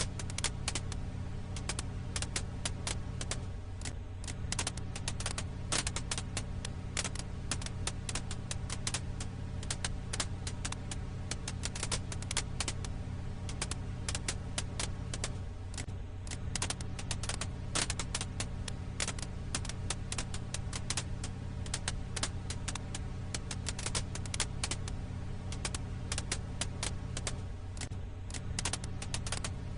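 Firewood crackling: dense, irregular pops and snaps over a steady low hum.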